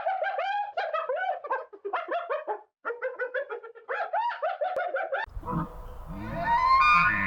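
Rapid series of short, squeaky animal calls, many per second with brief gaps, cut off abruptly about five seconds in. A different recording follows, with a longer call that rises in pitch.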